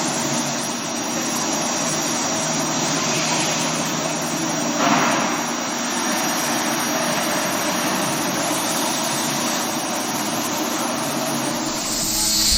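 Okuma GENOS M660-V vertical machining center running a die-and-mold milling cut: a thin high spindle whine over a steady rush of machining noise, with a brief louder swell about five seconds in. The whine stops shortly before the end.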